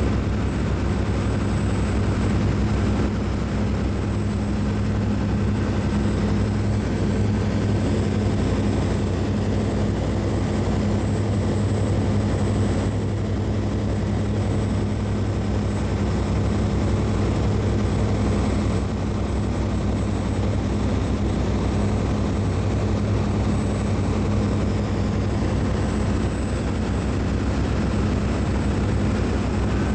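Steady machinery drone of a cruise ship, a constant low hum with a thin high whine above it.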